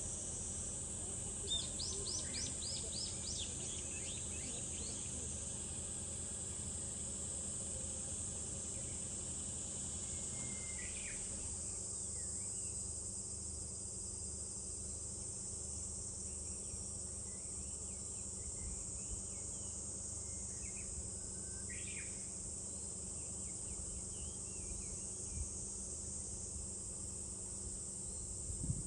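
Cicadas droning in a steady, continuous high-pitched chorus, with birds calling over it: a quick run of chirps a couple of seconds in, and single calls near the middle. A low rumble runs underneath.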